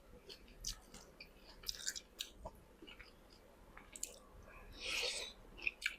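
A person chewing food close to the microphone: soft wet mouth clicks and small crunches, with a longer, louder crunchy burst about five seconds in.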